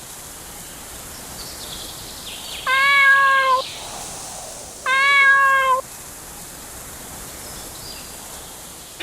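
A cat meowing twice, each meow about a second long and steady in pitch, with a pause of about a second between them.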